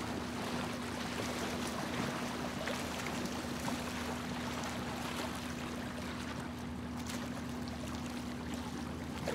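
Steady background noise with a constant low hum underneath.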